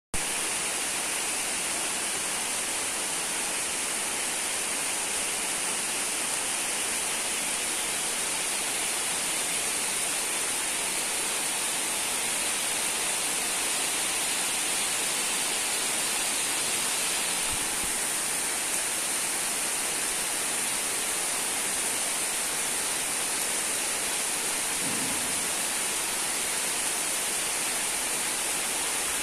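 Heavy downpour falling on standing water and trees, a steady, even hiss of rain.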